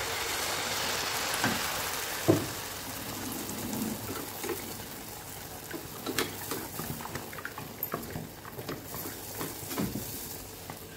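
Malpua batter sizzling and crackling as it deep-fries in hot oil. The sizzle is loudest just after the batter goes in and slowly dies down, with scattered pops and a sharp tap a little over two seconds in.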